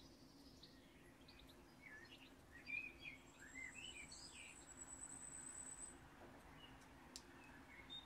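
Faint outdoor birdsong: scattered short chirps and whistles, loudest a few seconds in, with a thin high note held for about three seconds in the middle, over a faint low hum.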